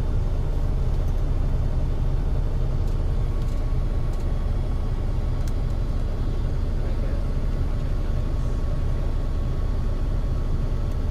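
Semi truck running, a steady low rumble of engine and road noise.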